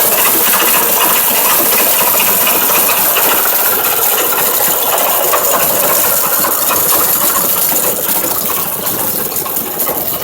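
MOROZ pumpkin-harvesting combine, driven by its 16 hp petrol engine, running while it processes pumpkins for seed: a loud, dense mechanical clatter and rattle, easing slightly near the end.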